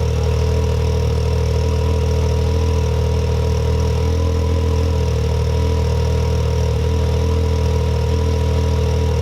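Can-Am Maverick X3 XMR's turbocharged Rotax three-cylinder idling steadily through an Evolution Powersports full exhaust with the catalytic converter deleted, warming up from a cold start. It sounds a little weird, which the owner puts down to the machine not having been started in 28 days.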